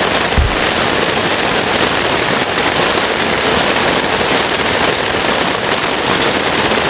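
Heavy downpour falling on a tent, a dense, even rain noise. A brief low thump about half a second in.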